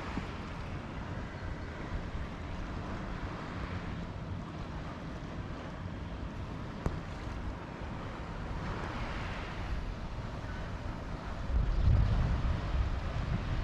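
Sea waves washing in on the shore in slow swells, with wind buffeting the microphone, heavier near the end.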